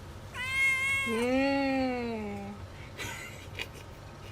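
Cat meowing: a short high-pitched call, then a longer, lower drawn-out meow that slides down in pitch at the end.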